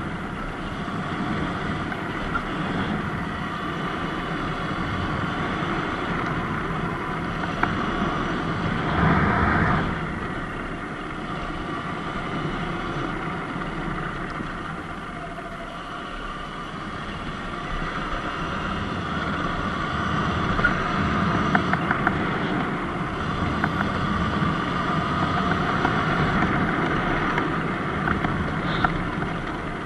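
Surron X Light Bee electric dirt bike under way on a dirt road: motor and drivetrain whine mixed with tyre noise and wind on the microphone, rising and easing with speed. There is a louder swell about nine seconds in and a few sharp clicks later on.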